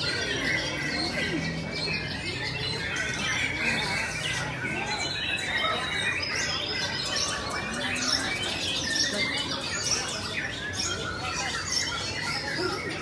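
A dense chorus of many birds calling at once, overlapping squawks and chirps with no break.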